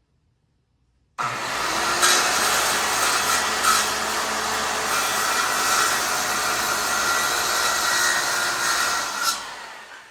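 RIDGID circular saw switched on about a second in, running steadily at a loud level as it cuts into the wooden barn door, then released near the end and winding down.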